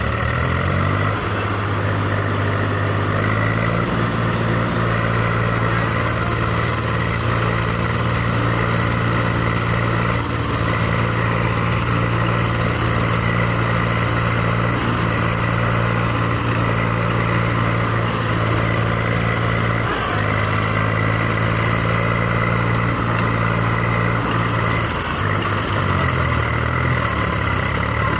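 Swaraj tractor's diesel engine running hard and steadily. Its pitch climbs over the first few seconds, and it drops briefly and picks up again near the end.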